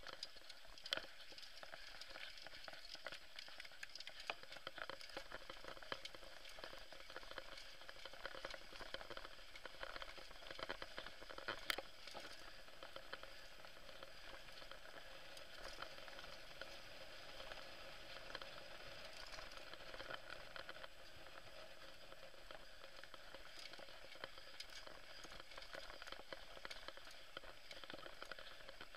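Steady crackling hiss of mountain bike tyres rolling over loose dirt and stones on a downhill descent, with the odd sharper knock from the bike, once about a second in and again near twelve seconds.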